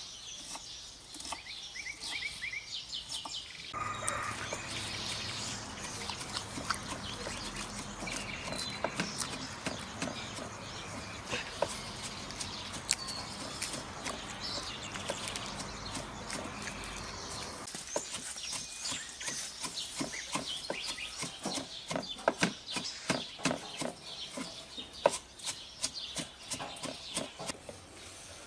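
Birds chirping, with a stretch of steady rushing noise in the middle and then a run of sharp clicks and knocks.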